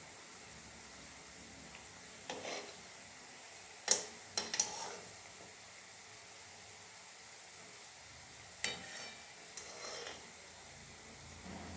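Langcha (chhana dough pieces) sizzling gently in white oil kept only moderately hot, frying slowly. A few sharp knocks of a utensil against the pan come about four seconds in and again near nine seconds.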